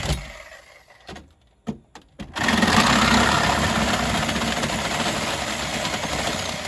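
Power saw cutting into the boat. A few clicks come first, then the saw starts about two and a half seconds in and runs steadily, easing off slightly toward the end.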